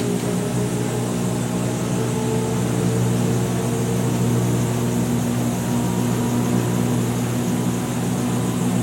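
2006 GE Profile top-loading washing machine spinning in its rinse spin: a steady, even motor hum with the basket whirling at constant speed.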